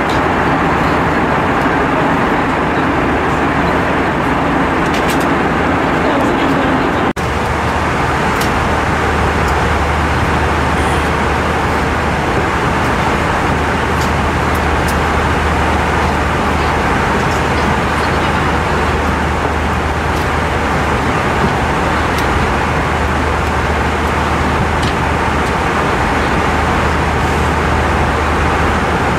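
Steady rush of airflow and engine noise inside an Airbus A320-232's cabin in flight, with a low hum underneath. The sound drops out for an instant about seven seconds in.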